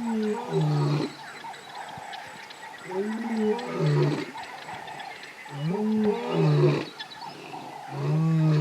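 Deep calls from a large wild animal, repeated about every three seconds: each an arching hoot that drops to a low, level note, over a steady high hum.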